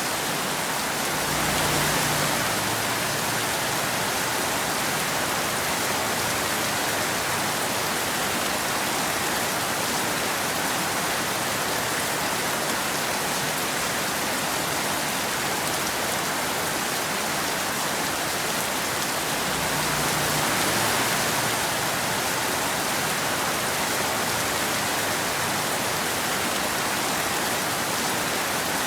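Steady rain falling, an even hiss, swelling slightly twice: about two seconds in and again about twenty seconds in.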